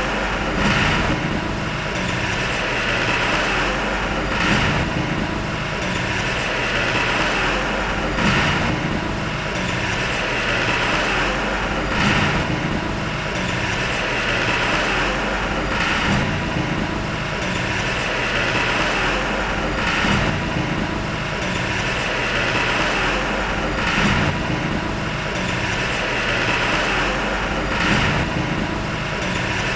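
Heavy diesel earthmoving machinery running steadily under load, with a brief surge repeating about every four seconds.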